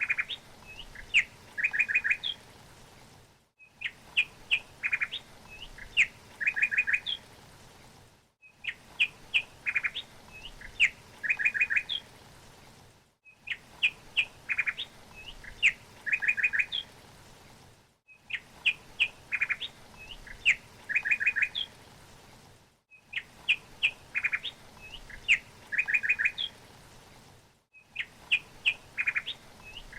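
A songbird's phrase of quick chirps and short trills, looped: the identical phrase repeats about every five seconds, with a brief cut to silence between repeats.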